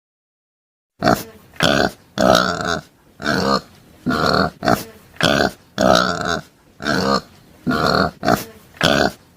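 Pig grunting over and over: about a dozen short, rough grunts, starting about a second in, some of them in quick pairs.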